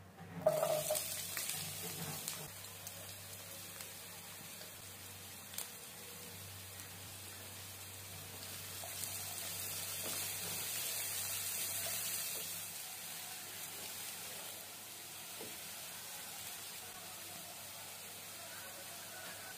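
Chopped shallots tipped into hot oil in a nonstick kadai, hitting with a loud sizzle about half a second in. They keep sizzling steadily as they fry with garlic and curry leaves under a stirring spatula, and the sizzle swells in the middle.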